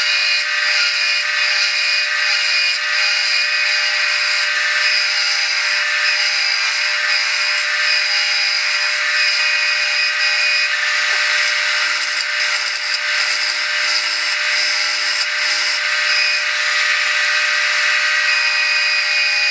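Wood lathe running steadily with a tool working against the spinning segmented wood blank, a steady machine whine over the scraping of the wood.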